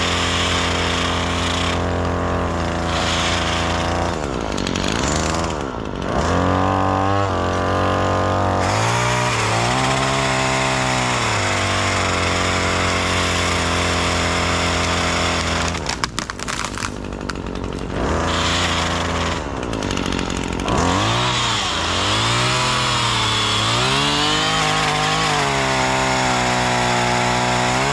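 Gas chainsaw running at high revs and cutting slowly into a tree, its pitch sagging under load and climbing again several times. It drops back briefly about two-thirds of the way through.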